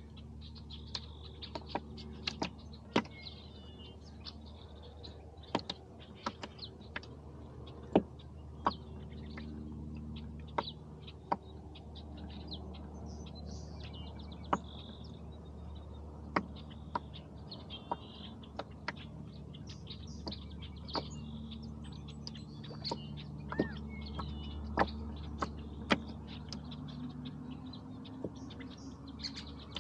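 Small birds chirping on and off, with irregular sharp clicks and light knocks about once or twice a second over a low steady hum.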